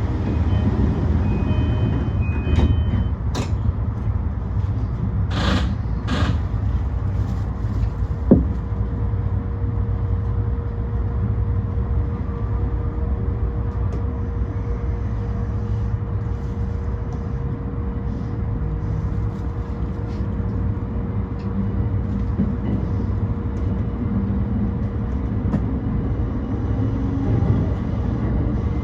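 Yokosuka Line E235-1000 series electric train heard from inside the carriage: a steady low running rumble. A few sharp knocks come in the first several seconds, and a steady hum tone sets in after about eight seconds.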